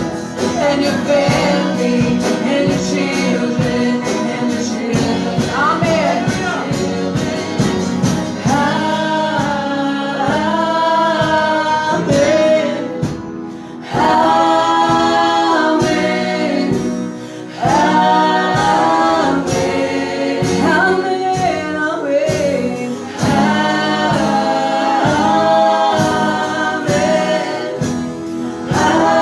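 Gospel song: voices singing with instrumental backing, with two brief pauses between phrases.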